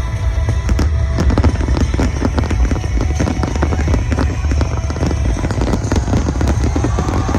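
Fireworks going off in rapid succession, many sharp bangs and crackles over a heavy low rumble, with music playing alongside.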